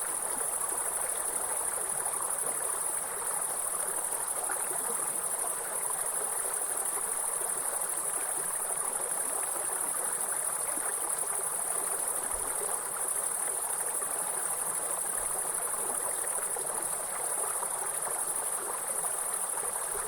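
A continuous high-pitched insect trill over the steady rush of flowing stream water.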